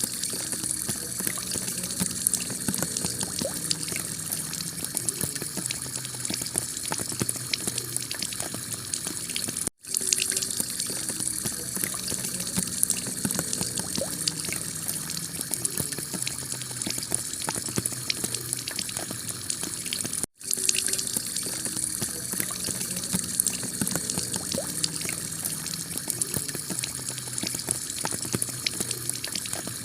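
Heavy rain pelting a clay-tile roof: a steady, dense patter of drops. It cuts out for an instant twice, about ten seconds apart.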